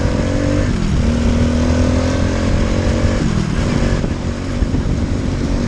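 Boomcat 125 motorcycle's 125cc engine running while riding, its steady tone breaking off briefly about a second in and again about three seconds in.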